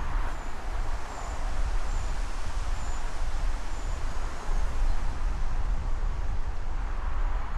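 Outdoor ambience of wind rumbling on the microphone and rustling leaves, with a short high chirp repeating a little under once a second.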